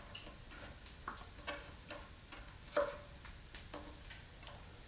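Irregular light taps and clicks of kitchen utensils during food prep, about a dozen spread unevenly, the loudest just before three seconds in.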